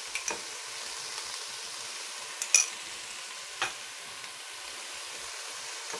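Chicken and vegetables frying in a pot with a steady sizzle. A metal spoon gives three sharp clicks, the loudest about two and a half seconds in.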